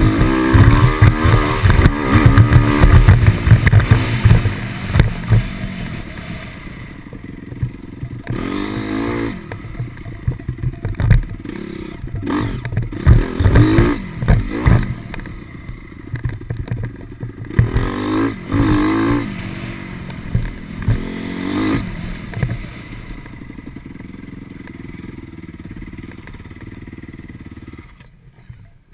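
Motocross dirt bike engines, loud at first, then further off, rising in pitch again and again as the throttle is opened on the track.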